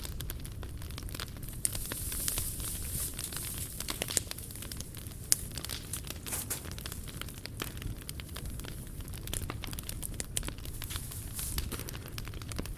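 Wood fire burning in a fire pit, crackling and popping irregularly over a low steady rumble, with a hiss that swells now and then. A few sharper pops stand out near the middle.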